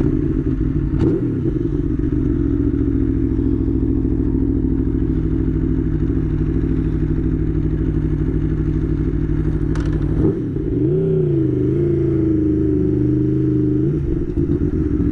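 Aprilia Tuono V4 1100 Factory's V4 engine running steadily as the bike is ridden off, heard from a mic inside the rider's helmet. There is a short click about a second in and another near ten seconds in, after which the engine note dips, climbs back and holds at a slightly different pitch.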